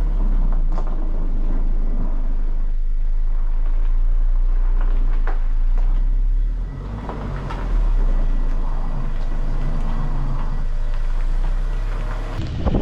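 Car driving over uneven road, with a steady low road rumble and a few sharp knocks from the front suspension. The knocking comes from a worn right-front stabilizer link.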